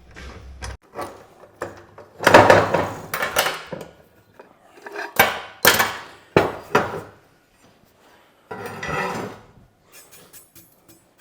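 Steel plate and hand tools handled on a workbench: a run of irregular clanks and knocks with stretches of scraping metal.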